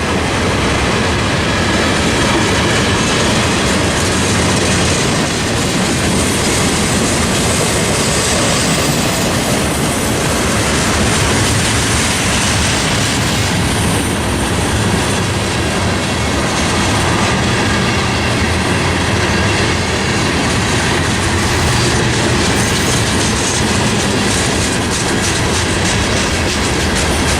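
Train passing close by at speed, a steady clatter of steel wheels running over the rails.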